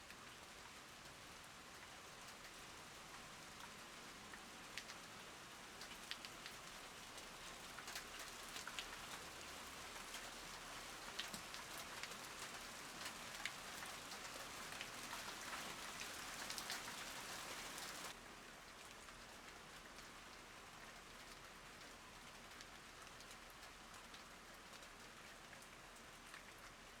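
Rain falling steadily, with the sharp ticks of single drops striking close by. It grows heavier and busier from about eight seconds in, then drops back abruptly to a lighter, even hiss about two-thirds of the way through.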